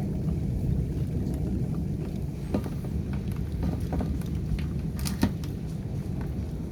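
Storm wind buffeting the microphone: a steady, gusting low rumble, with scattered sharp ticks and taps through it.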